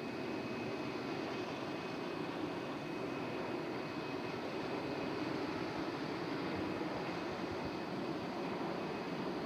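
Boeing 787 Dreamliner jet engines running: a steady rushing noise with a faint high, even whine over it.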